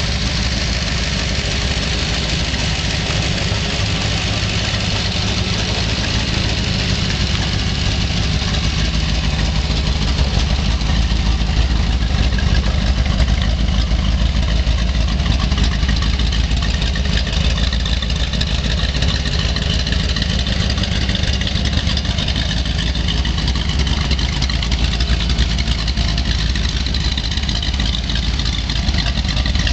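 Chevrolet 350 small-block V8 with headers idling steadily.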